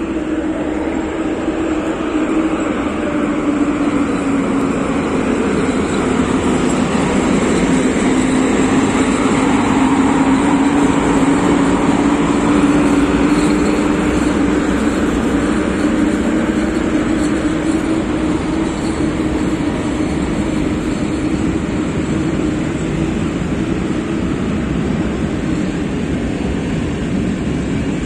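Freight train hauled by an ET22 electric locomotive running, a steady loud rumble with a hum that sags a little in pitch and then recovers.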